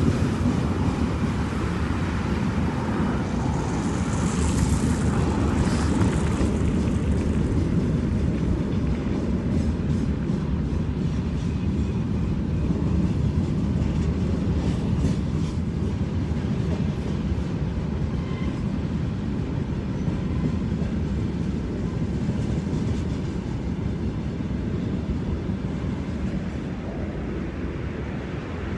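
Freight train wagons rolling past in a steady rumble, with the wheels clicking over rail joints in the middle stretch.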